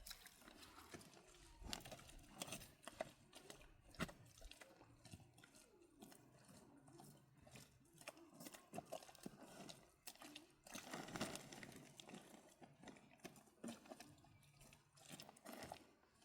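Faint scattered knocks and clicks, a few sharper ones in the first four seconds, with a denser stretch of rustling and knocking about eleven seconds in.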